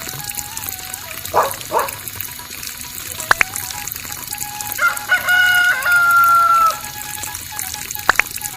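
A rooster crowing: one long drawn-out crow about five seconds in, with a few short calls before it.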